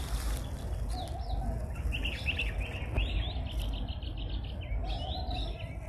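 Small birds chirping and trilling in quick high notes, with a steady low rumble underneath. A hiss at the start gives way to the chirps after about a second and a half.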